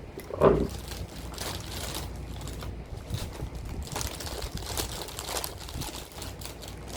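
Crinkling and clicking of plastic packaging and small plastic toy parts being handled, in many short irregular rustles, with one louder short sound about half a second in.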